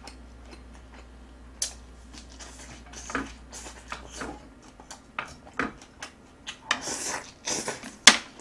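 Close-up eating sounds: wet chewing and smacking of a mouthful of braised short ribs and aged kimchi, with irregular light clicks of chopsticks against a plate. A sharp click near the end is the loudest sound.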